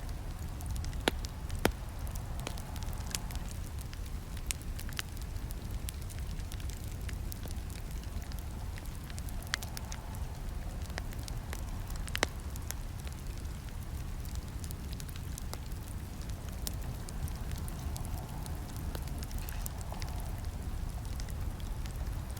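Campfire crackling: a steady low rumble of burning wood under irregular sharp pops and snaps. A few snaps stand out, two close together about a second in and one about halfway through.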